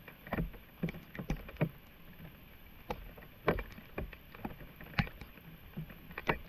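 Floodwater splashing and sloshing in irregular strokes, as if it is being stirred or waded through.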